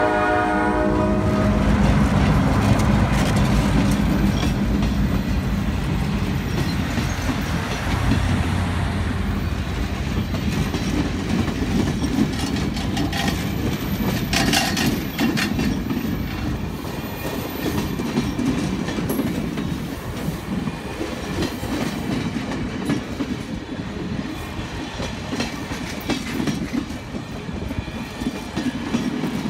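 Chime horn of EMD F9 diesel locomotives cutting off about a second in. The locomotives' diesel engines then rumble past, giving way to passenger cars rolling by with wheels clattering over the rail joints.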